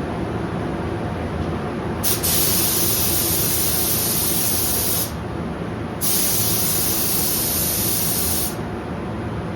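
Paint spray gun spraying clear coat in two bursts, each about three seconds long, as the trigger is pulled and released. A steady low hum runs underneath.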